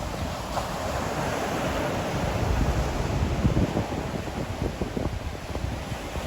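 Ocean surf: a wave breaks and washes in, swelling to its loudest around the middle, with wind buffeting the microphone.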